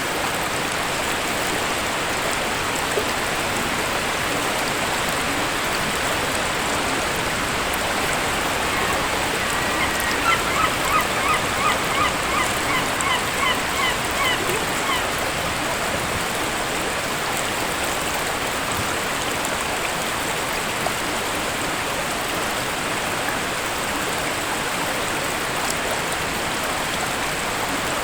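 Steady rush of a waterfall. About a third of the way in, a bird calls a quick run of about ten notes, about two a second, fading toward the end of the run.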